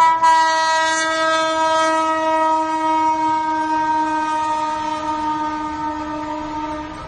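A long, steady horn blast of one pitch that starts abruptly, sinks very slightly in pitch as it holds for about seven seconds, and breaks off briefly near the end.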